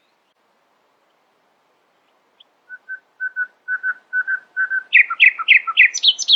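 A songbird singing one phrase, starting about two and a half seconds in: a quickening run of repeated short whistled notes that grows louder, then a string of loud falling slurred notes and a few higher notes near the end.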